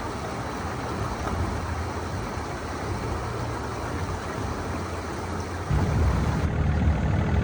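A motor vehicle's engine running steadily under a noisy wash, growing louder and heavier about six seconds in.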